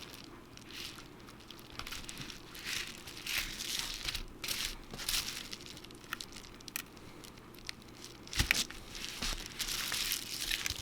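Cracked iPhone 7 Plus screen being pried up off the phone's frame: shattered glass crackling and crunching in irregular bursts, with a sharp click about eight seconds in.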